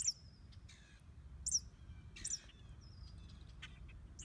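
Small songbird chirping: short, high calls, three times, over a faint low rumble.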